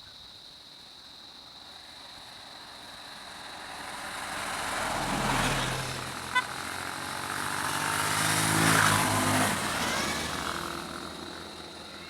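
Road vehicles driving past one after another: one swells and fades about five seconds in, and a louder one passes near nine seconds, with engine and tyre noise. A very short horn-like beep sounds between them.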